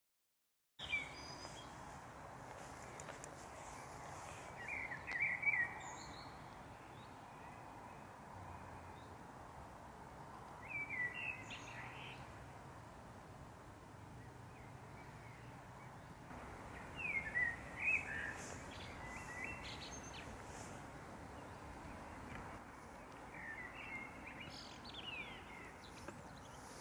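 A songbird singing four short warbling, chirping phrases about six seconds apart, over a steady background hum.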